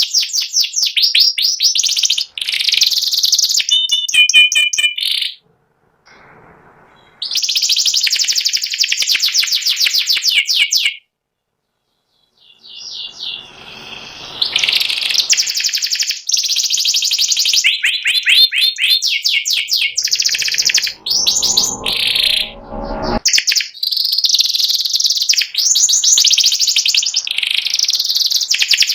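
A white panda canary singing: long runs of rapid trilled and rolling phrases, high-pitched. The song breaks off briefly twice, about five and eleven seconds in.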